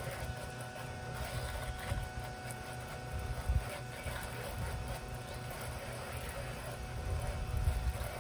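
Electric pressure washer running steadily with a faint motor whine, spraying water to rinse cleaner off vinyl siding, over a low uneven rumble.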